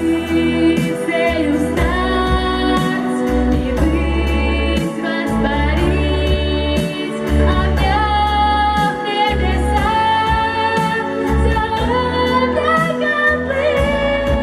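A female voice singing a song with instrumental backing, holding long notes with vibrato.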